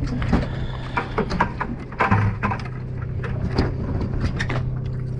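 The boat's engine droning steadily, with a quick run of sharp knocks and clatters from handling on deck over the first four seconds or so.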